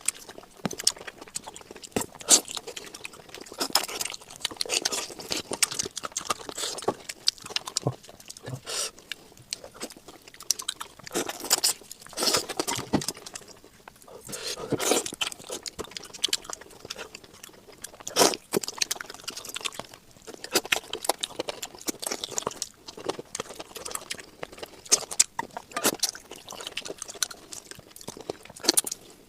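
Close-miked eating sounds: irregular crunching, biting and chewing of food, with sharp crisp crackles coming in uneven bursts.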